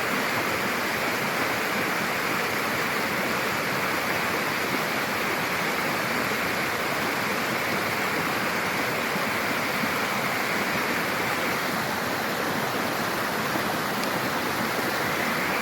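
Running water rushing steadily, an even, unbroken rush with no changes.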